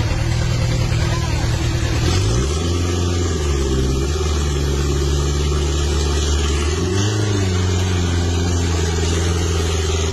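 Truck engine running steadily under load. Its pitch drops about two seconds in, then briefly rises and falls back about seven seconds in, as the engine speed changes.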